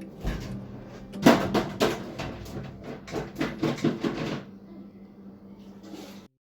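A quick run of sharp knocks and clatters lasting about three seconds, over a steady low hum; the sound cuts off suddenly near the end.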